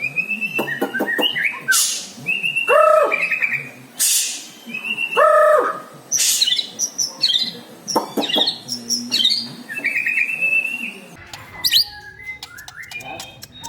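White-rumped shama (murai batu) singing a varied song of quick chirps, high trills and harsh arching calls, which imitates lovebird and prinia calls.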